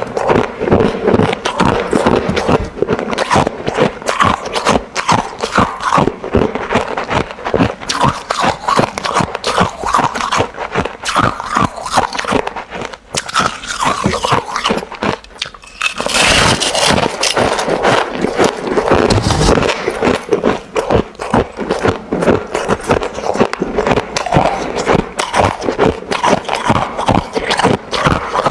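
Close-miked crunching and chewing of hard crushed and shaved ice, a dense run of rapid crackling crunches, with a louder crunching burst about sixteen seconds in.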